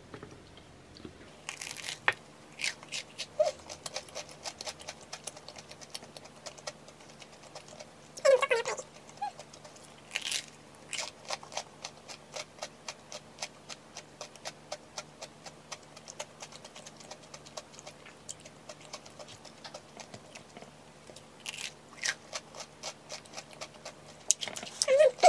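Close-up crunching and chewing of a twigim soboro, a fried bread with a crisp streusel topping: a dense run of small crackling crunches, with several louder bites now and then.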